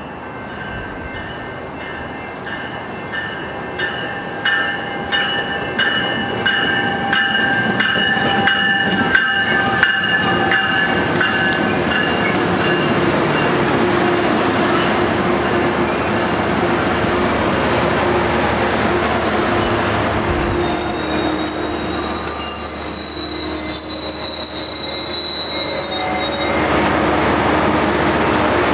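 Metrolink bilevel commuter train rolling past the platform: rhythmic clacking of wheels over rail joints, growing louder over the first several seconds. A steady rumble follows, with high wheel squeal throughout that turns shriller near the end.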